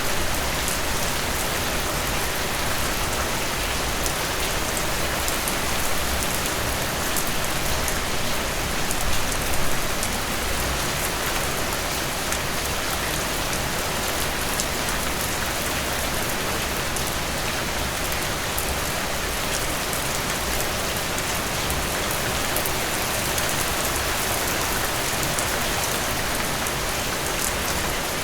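Steady rain falling, with close raindrops pattering on a surface.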